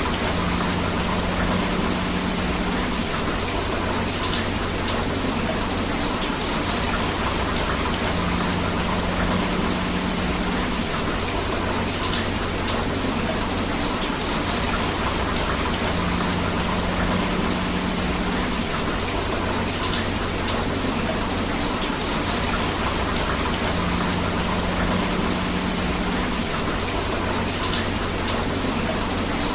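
Steady rain mixed with a flowing river, an even rushing hiss. A low hum rises out of it for a couple of seconds about every eight seconds.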